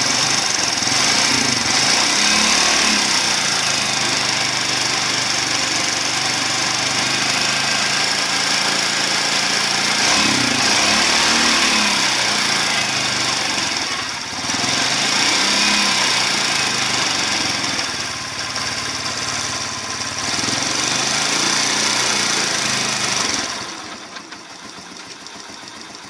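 Yamaha Crypton 110's single-cylinder four-stroke engine running, revved up and down several times, then dropping back to a lower, quieter run near the end. It carries the clicking noise from the timing chain side that the owner describes, coming back after a new timing chain, with the timing gear seen wobbling as if off-centre.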